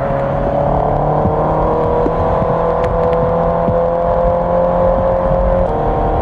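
Honda CB650R inline-four motorcycle engine running on the move, its note slowly falling in pitch, with a small further drop about five and a half seconds in.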